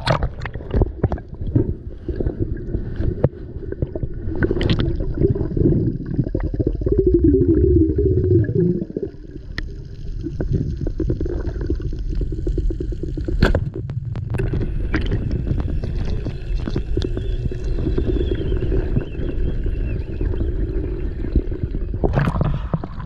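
Muffled underwater recording: a steady low rumble and gurgling of water with many small clicks and ticks, and a wavering muffled tone about seven seconds in.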